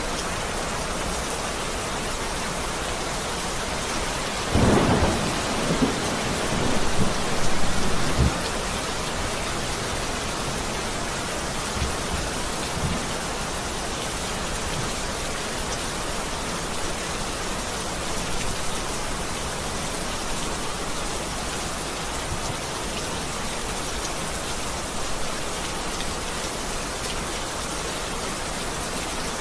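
Steady heavy rain, with a spell of low thunder rumbling about five to eight seconds in.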